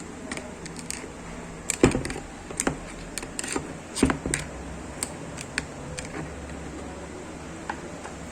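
Flat screwdriver and small metal parts of an angle grinder's gearbox clicking and tapping against each other during disassembly: irregular light clicks, the sharpest about two seconds and four seconds in.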